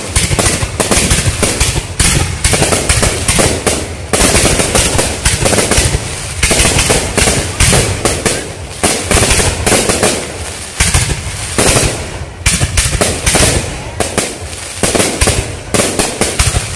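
Fireworks display with aerial shells bursting in quick succession: a dense, unbroken run of bangs and crackle, many per second.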